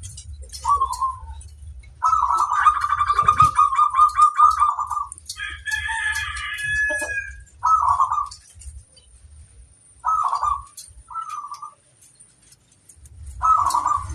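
Zebra doves (perkutut) cooing: several short coos, and about two seconds in one long, rapid run of staccato coo notes. About five seconds in, another bird gives a higher, drawn-out call.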